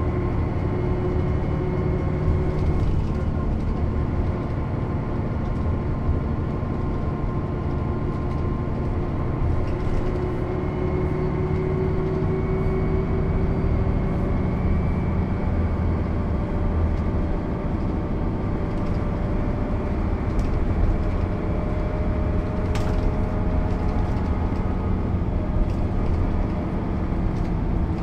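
Mercedes-Benz O 407 city bus's six-cylinder diesel engine running under way, its pitch drifting slowly up and down with engine speed. A short click about 23 seconds in.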